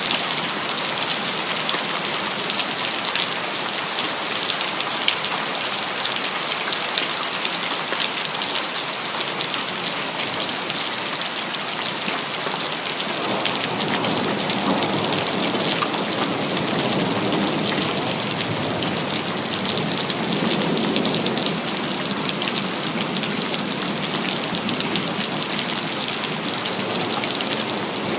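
Steady rain, dense with fine drop patter. Near the middle, a low distant rumble of thunder swells for several seconds and fades.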